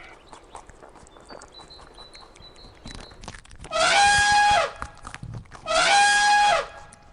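Two loud, drawn-out animal calls about a second apart, each held on one pitch and dropping at the end, after a few seconds of faint ticking and a faint high chirping.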